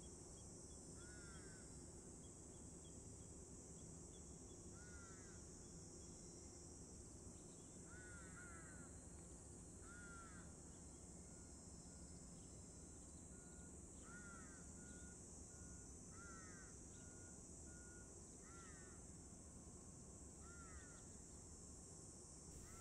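Faint outdoor quiet: a bird gives short calls about ten times, one every two to three seconds, over a steady high hiss.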